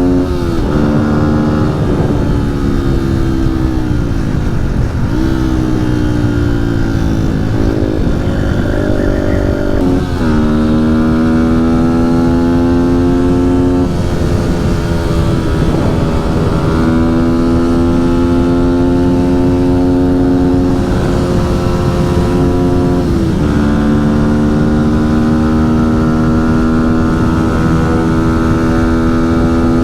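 Motorcycle engine under way at speed, heard from the rider's seat, its pitch holding steady for stretches and dropping briefly a few times (around 4, 10, 14 and 23 seconds in) before settling again as the rider shifts or rolls the throttle. Wind buffets the microphone throughout.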